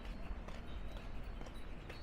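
Footsteps of a person walking, about two steps a second, over a low rumble of wind on the microphone.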